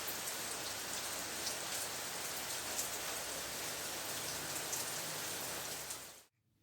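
Steady rain falling, an even hiss with scattered sharper drop hits, fading out to silence near the end.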